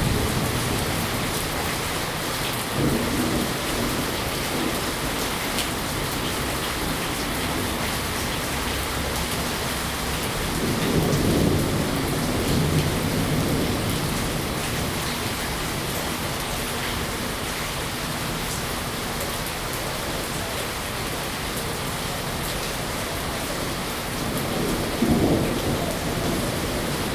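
Steady rain, an even hiss, with a few low rumbles: one a few seconds in, a longer one near the middle and one near the end.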